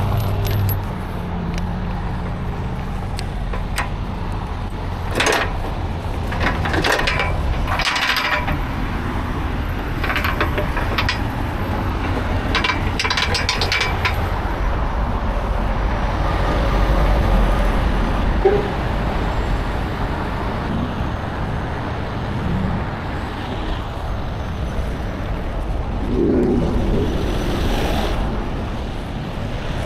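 A steady low engine rumble, with scattered sharp metallic clanks and clinks several seconds in.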